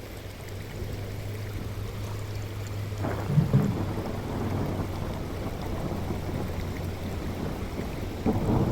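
Rain with thunder rumbling, swelling about three seconds in and loudest just after.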